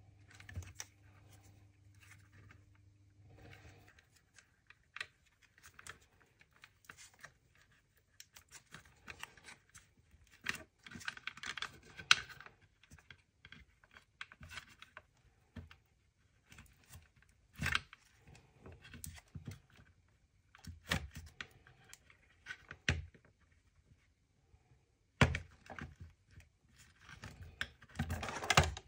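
Hands working on a small electronic device: irregular clicks, taps and rustles of plastic parts, wire and small tools being handled. A faint steady hum stops about four seconds in.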